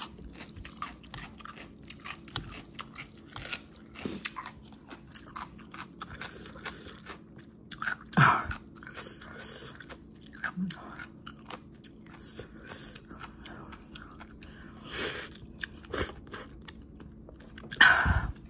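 Close-up chewing of spicy instant noodles and crunchy pickled yellow radish: many small wet clicks and bites, with a few louder mouth sounds about eight seconds in and near the end.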